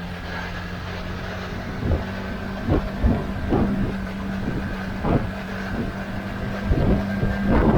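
Motorcycle engine running at a steady low speed in traffic, heard over road and rain noise, with irregular low thumps of wind buffeting the microphone; the thumps are strongest near the end.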